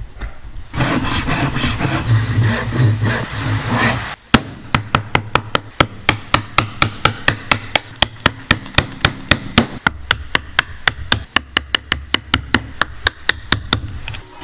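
Rough scraping of a tool on wood for about three seconds, then a long, even run of sharp hammer strikes on wood, about four a second.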